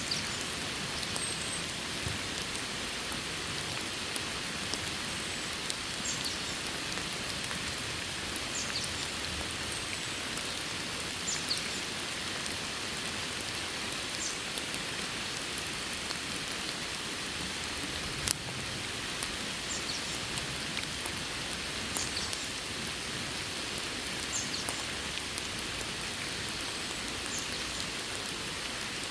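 Steady rain falling, with scattered louder drops ticking through the even hiss.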